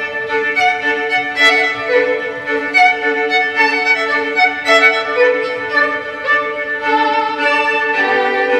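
Violin music: a melody of short, changing notes played over two held lower notes, which shift to new pitches near the end.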